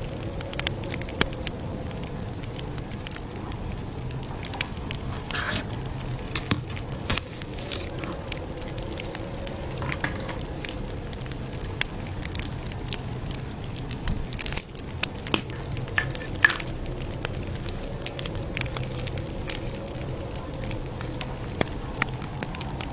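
Campfire crackling: a steady low rush of burning wood broken by frequent sharp pops and snaps at irregular intervals.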